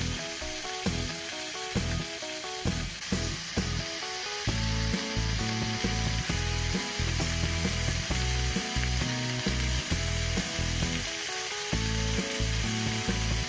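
Eggplant and frozen bell pepper strips sizzling in hot oil in a frying pan as they are stir-fried with a wooden spatula.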